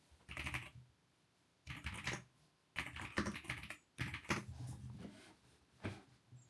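Typing on a computer keyboard in several short runs of quick keystrokes, with brief pauses between runs.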